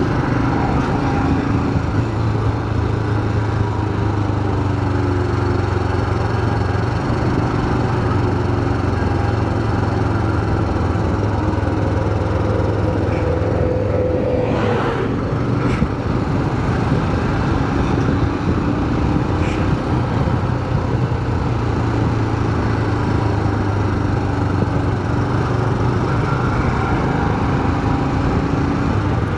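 Motorcycle engine running at a steady speed on the ride, with wind and road noise over it.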